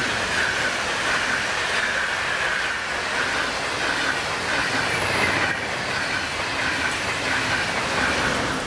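ÖBB Railjet passenger train passing close at speed: a loud, steady rush of wheels on rail with a regular clatter about every half second.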